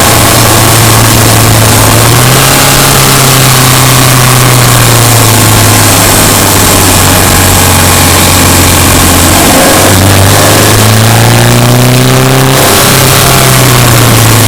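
Subaru Impreza Sport's flat-four boxer engine running under load while driving, its pitch stepping up about two seconds in, sagging slowly, dropping near ten seconds, then climbing again as the revs rise.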